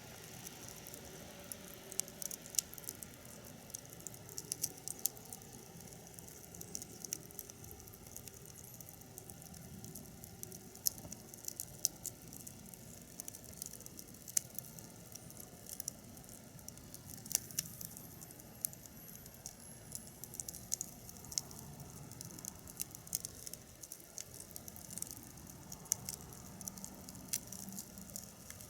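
Firewood burning in a fire pit, crackling with many irregular sharp pops and snaps over a low steady hiss.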